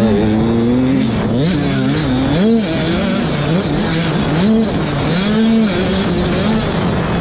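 85cc two-stroke motocross bike engines racing, their pitch rising and falling about once a second as the throttle is worked on and off.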